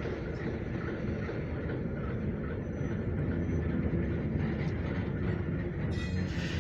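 Train rumbling steadily at close range, with a short sharp clatter near the end.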